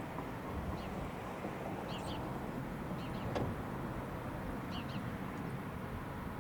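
A small bird chirping short paired high notes about every second, over a steady low outdoor rumble.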